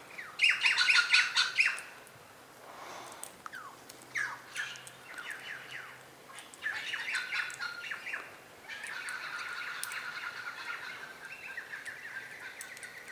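Wild birds at a feeder chirping and squawking: a loud burst of harsh calls at the start, scattered shorter calls, then steady chattering through the last few seconds.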